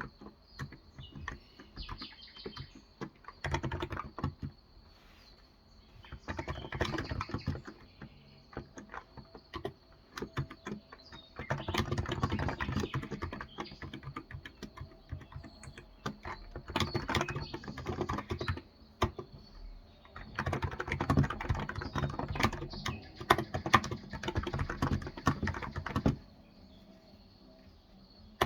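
Typing on a Cox Endeavor electrostatic capacitive (Topre-style) tenkeyless keyboard with 35 g keys: runs of rapid keystrokes in several bursts with short pauses between, the longest burst near the end, then stopping.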